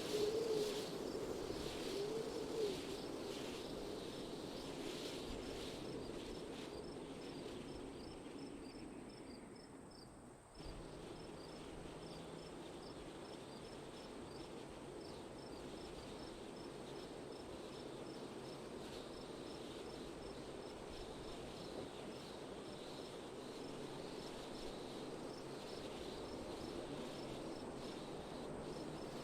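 Wind blowing in a soft, wavering rush, with crickets chirping in a steady high pulse over it. The sound sinks away about ten seconds in and then cuts back in abruptly.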